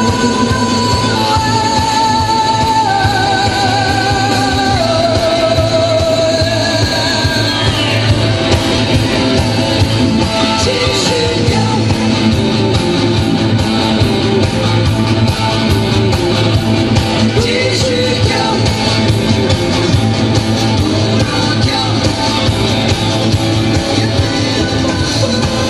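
Live rock band playing loud with electric guitar and singing.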